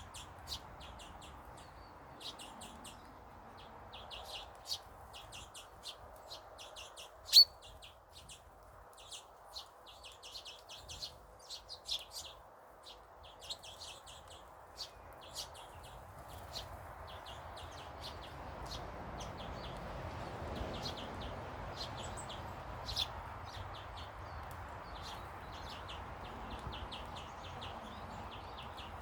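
Small garden birds chirping in many quick, short calls, with one much louder sharp note about seven seconds in, over a steady background noise.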